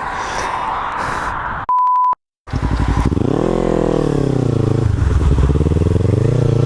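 Wind and engine noise of a motorcycle being ridden, broken about two seconds in by a half-second censor bleep and a moment of dead silence. Then a sport motorcycle's engine revs up, drops back and climbs again in pitch as it accelerates.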